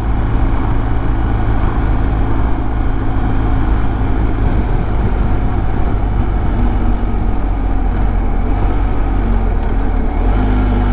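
BMW R1250 GS Adventure's boxer-twin engine running steadily while riding, under constant wind and road noise; the engine note rises near the end.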